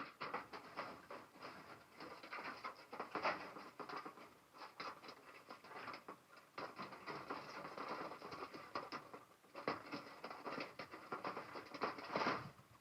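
Water spraying onto potted lychee marcots, a dense pattering on leaves and soil that pauses briefly twice and stops near the end.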